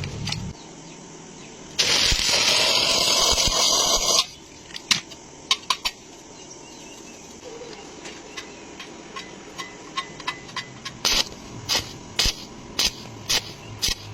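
Welding arc on thin-walled square steel tube: one continuous weld lasting about two seconds, then a run of short, separate bursts like stitch or tack welds, growing more frequent towards the end.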